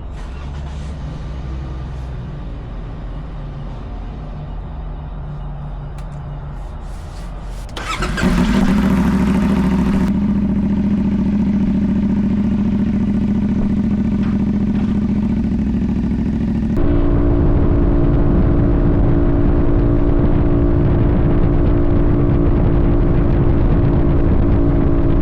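Sportbike engine running steadily at idle, without revving. About eight seconds in it jumps abruptly louder with a brief rush of noise, and about seventeen seconds in the tone changes abruptly again to a steadier hum.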